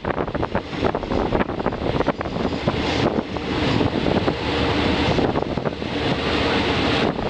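Passenger train moving through the station: a steady rumbling rush with quick irregular clicks in the first few seconds, and wind buffeting the microphone.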